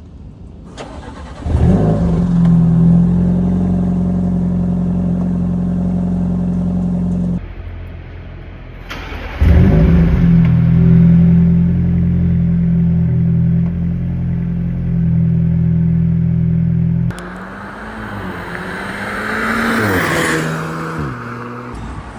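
Audi A5 45 TFSI's 2.0-litre turbocharged four-cylinder, through a muffler-deleted exhaust with a cold air intake. It starts up twice, each time flaring briefly and then settling into a steady idle. After that the engine is revved, its pitch climbing and falling, loudest near the end.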